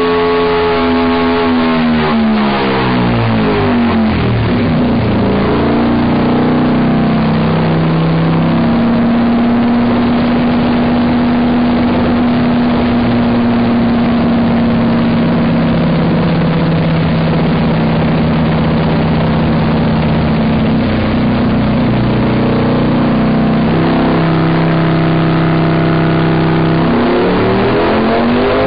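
Ducati Desmosedici V4 engine breathing through a full race exhaust, running loud on a dyno. The revs drop over the first few seconds, hold at a steady speed for about twenty seconds, then start rising again near the end.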